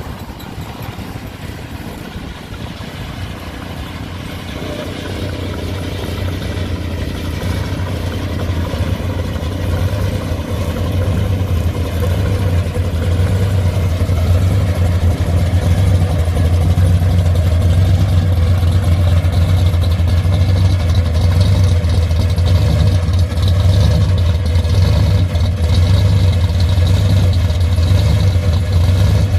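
A hot rod's engine running with a deep, steady low rumble that grows louder over the first dozen or so seconds as the car draws near, then holds at its loudest.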